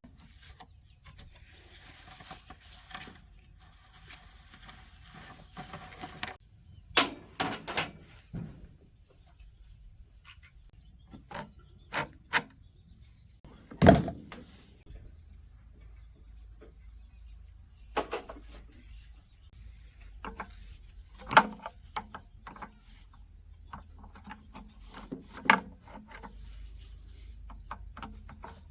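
Steady high chirring of crickets or other insects, with scattered sharp knocks and clicks, about a dozen, as engine parts and tools are handled; the loudest knock comes about halfway through.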